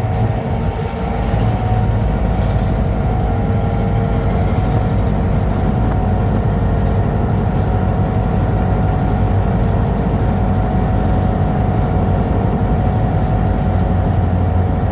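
Diesel locomotive engine running at a steady pitch with a deep rumble, its throttle held low.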